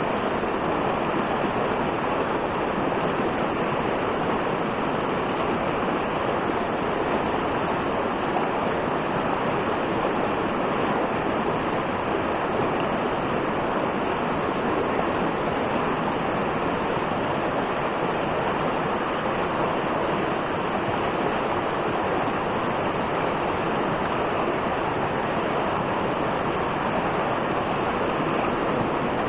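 Steady rush of falling water from a waterfall or cascade, an even roar that does not change.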